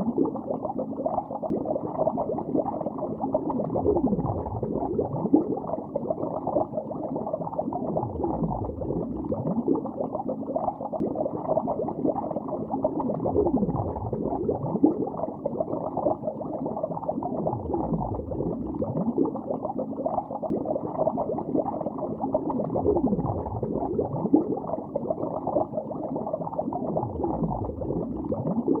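Underwater bubbling heard through water: a dense, muffled stream of bubbles with nothing above the low and middle range. A slow sweeping swell recurs about every four to five seconds.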